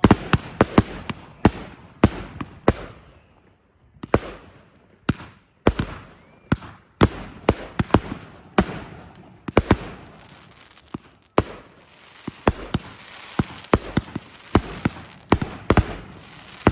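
Fireworks going off in a rapid, irregular string of sharp bangs, at times several a second. There is a short lull about three seconds in, and a steady hiss beneath the bangs in the later part.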